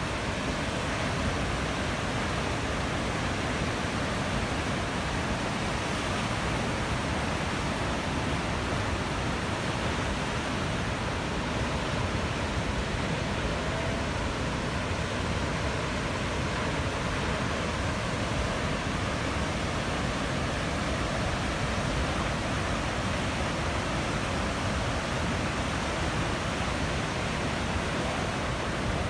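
Running water making a steady, unbroken rushing noise.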